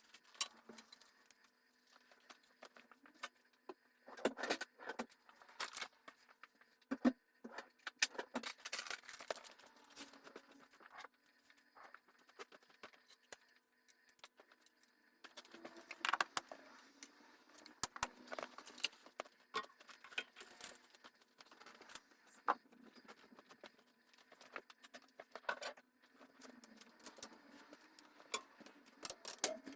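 Irregular clicks, knocks and small rattles of household objects being picked up, shuffled and set down, heard over a faint steady hum.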